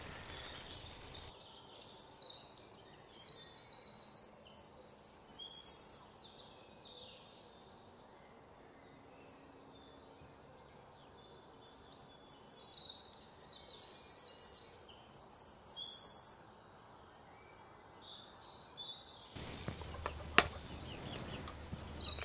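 Birds chirping and singing high, rapid trilled phrases, in two loud bursts about ten seconds apart with quieter chirps between. A single sharp click comes near the end.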